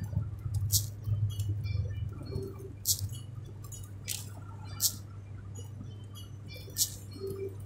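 Low steady hum of a car moving on the road, heard from inside the cabin, with five short, sharp hissy ticks at uneven intervals over it.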